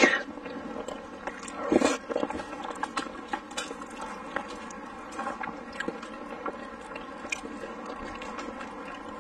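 Close-miked eating: a person chewing spicy noodles and meat with wet mouth clicks and smacks, with a louder bite right at the start and another loud mouth sound about two seconds in.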